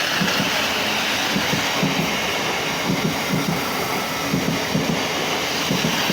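Class 707 electric multiple unit train running through the station with a steady rumble, its wheels thumping over rail joints about twice a second.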